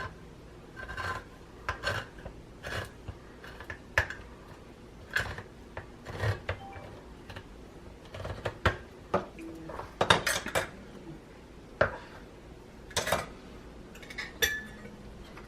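Metal kitchen utensils clinking, knocking and scraping against cookware in an irregular run of sharp strikes, loudest a little past the middle and again near the end.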